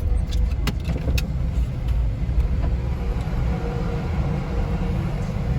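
Car running at low speed or idling, a steady low rumble, with a few light clicks about a second in.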